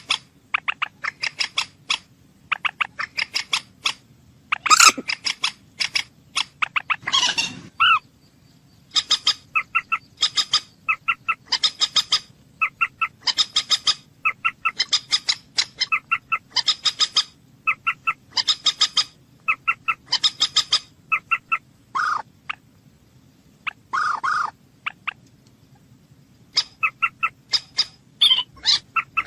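A bird calling over and over in quick runs of short, sharp, high notes, with a few longer, louder calls among them. A faint low hum runs underneath.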